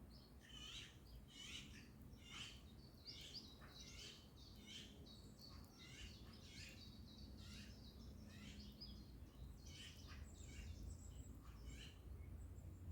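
Faint morning birdsong: many small birds chirping in quick short notes, over a low outdoor rumble.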